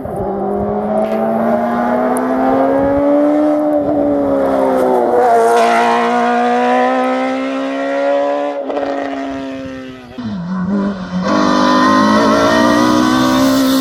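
Race car engine held at high revs, its pitch climbing slowly through each gear with short dips at the changes. About two-thirds of the way in it drops away sharply as the driver lifts off, then picks up again.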